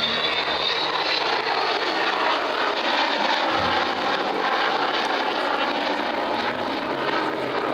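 Avro Vulcan bomber's four Rolls-Royce Olympus jet engines in a flypast: a loud, steady jet rush, with a faint high whistle near the start.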